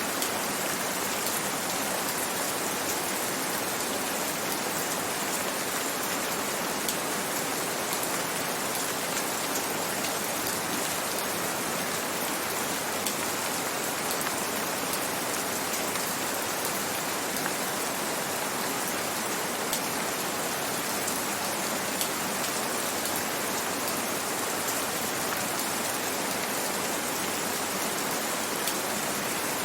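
Steady gentle rain falling, with faint individual drop ticks scattered through an even hiss.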